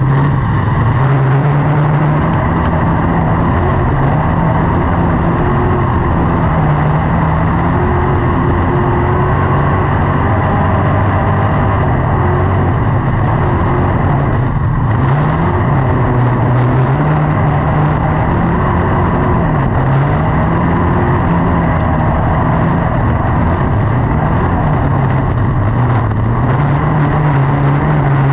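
Race car engine running at speed on a track, loud and steady, its pitch rising and falling again and again every few seconds.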